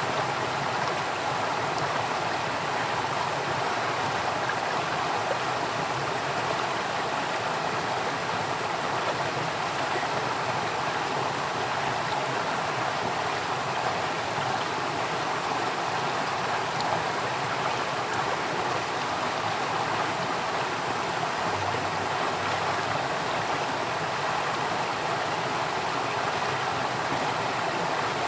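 Water flowing in a stream, a steady, unchanging rush.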